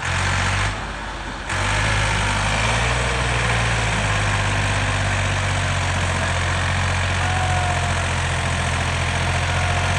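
Massey Ferguson 260 tractor's diesel engine idling steadily, with a brief drop in level about a second in.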